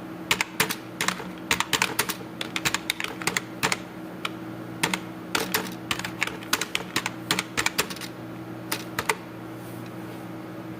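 Typing on a computer keyboard: quick runs of keystrokes with short pauses, stopping about nine seconds in. A steady low hum runs underneath.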